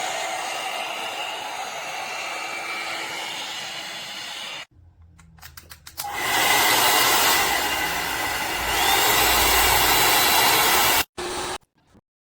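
Hot-air brush hair dryer blowing with a steady whooshing hiss. It cuts out about four and a half seconds in, with a few clicks, then comes back on louder about a second later. It stops abruptly near the end after a short final burst.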